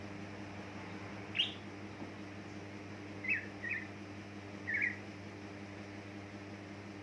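Cucak ijo (green leafbird) giving four short, sharp chirps, the first a quick sweeping note about a second and a half in, the others around three to five seconds in, over a steady low hum.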